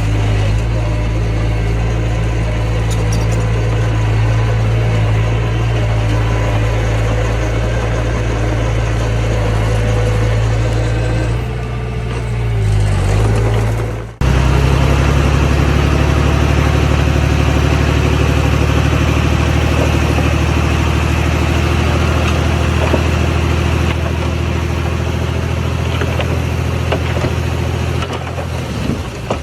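Diesel engine of heavy earthmoving equipment running steadily with a deep drone. About twelve seconds in the engine note dips and slides in pitch, then breaks off sharply and comes back louder at a slightly different pitch.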